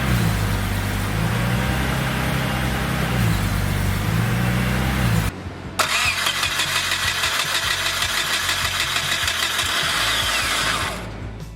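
Car engine running, in two passages. For about five seconds it has a wavering low drone. After a short break it comes back as a harsher, hissier run with fast regular ticking, then fades out near the end.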